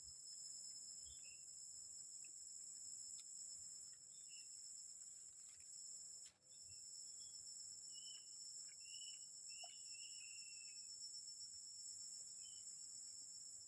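Faint, steady high-pitched insect chorus of forest crickets or cicadas, with scattered short bird chirps and a few light clicks.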